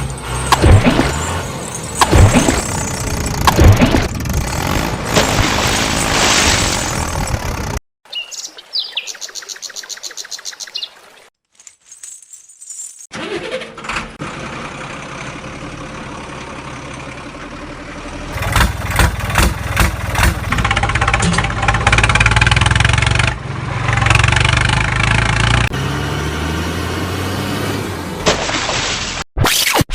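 Model vehicle running sounds in several cut-together stretches, with a short silent gap about 11 seconds in and a louder, steady engine-like run from about 18 seconds on.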